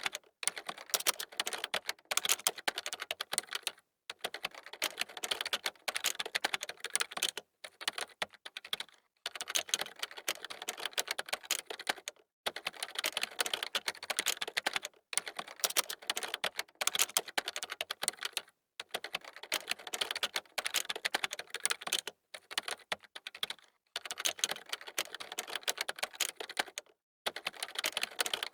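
Computer keyboard being typed on fast, dense runs of key clicks broken by brief pauses every couple of seconds.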